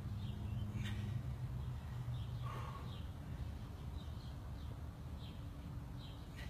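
Small birds chirping outdoors: short, high, falling notes repeated every second or so, over a steady low background rumble.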